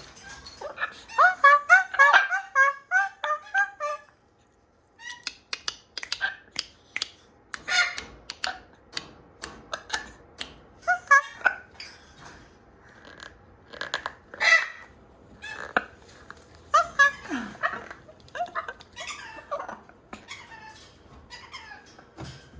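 Two parrots squeaking and chirping: a rapid run of short, high squeaky notes for the first few seconds, a brief break, then scattered squeaks, chirps and clicks.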